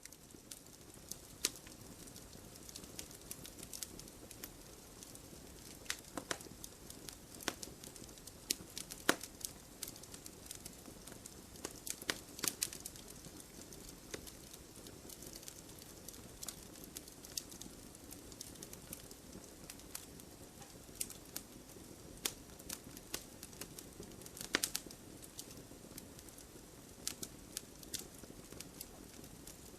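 Firewood burning in a fire: a soft steady hiss broken by irregular crackles and sharp pops of varying loudness.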